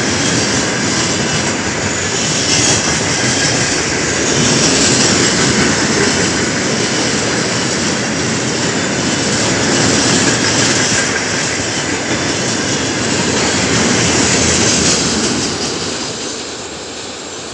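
Freight train tank cars rolling past close by, their wheels running steadily on the rails, fading as the last cars go by near the end.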